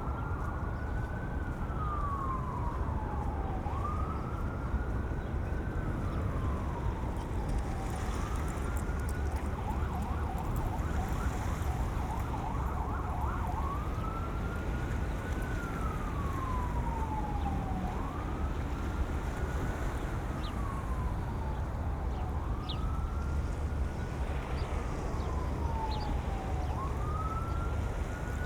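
An emergency-vehicle siren wailing, each cycle rising quickly and then sliding slowly back down, repeating about every four seconds, with a faster warble joining briefly in the middle. Wind rumbles on the microphones underneath.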